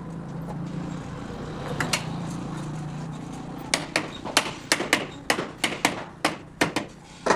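A rapid run of about a dozen sharp knocks, roughly three a second, starting about halfway in, after a steady low hum.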